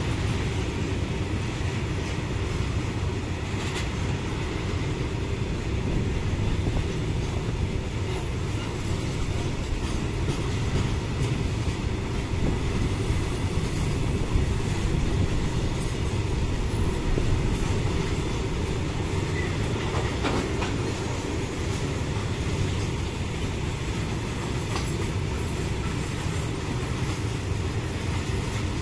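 Heavily loaded freight train's covered box wagons rolling past, a steady rumble of steel wheels on the rails with scattered clicks.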